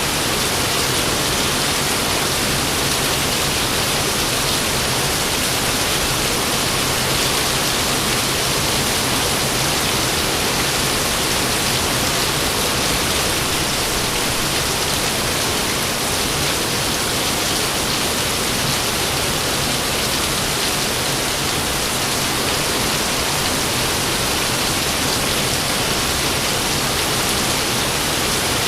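Rain falling steadily, a dense, even hiss that holds at one level throughout, with no thunderclaps.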